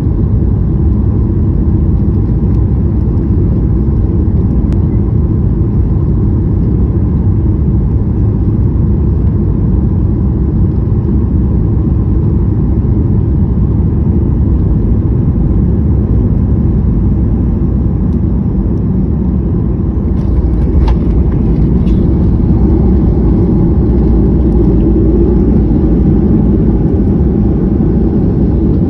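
Airliner cabin noise during landing: a steady, loud rumble of engines and airflow. About twenty seconds in, a few knocks, typical of the wheels touching down, come before the rumble grows louder.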